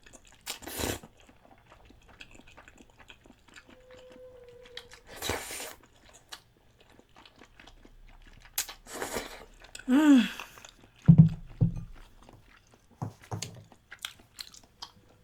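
Close-miked eating: chewing and crunching on spicy soup-braised chicken feet and glass noodles, with many small wet clicks and a few short slurping bursts. About ten seconds in there is a brief hummed voice sound.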